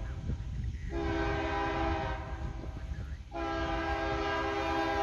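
Locomotive air horn of an approaching freight train: the tail of one blast ends just after the start, then two long, steady blasts with a brief gap between them, over a low steady rumble.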